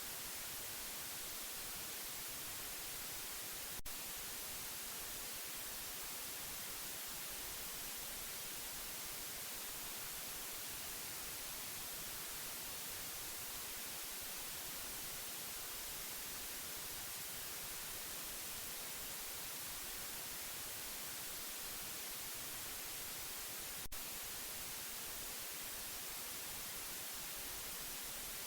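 Steady white noise hiss, brightest in the high frequencies, played as a sleep aid for a baby. Two faint clicks break it, about twenty seconds apart.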